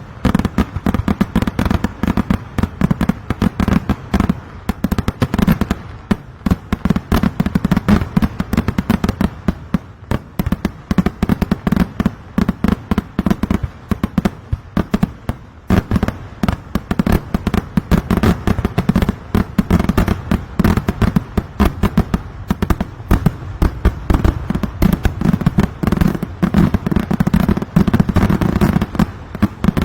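Kerala temple vedikkettu fireworks: a continuous barrage of loud firecracker bangs, many a second, going on without a break, with a few brief lulls.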